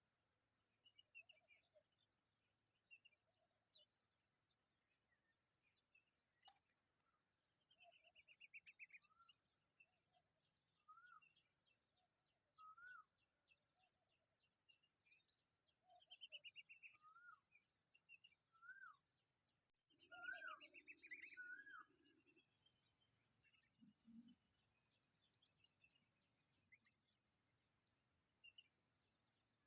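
Faint common babbler calls: short rising notes and several quick, chattering trills, over a steady high drone of crickets. The sound cuts out for a moment just before the liveliest burst of trills.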